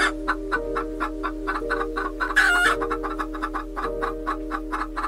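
Fowl clucking, with two loud, short calls about two and a half seconds apart, over background music with long held notes.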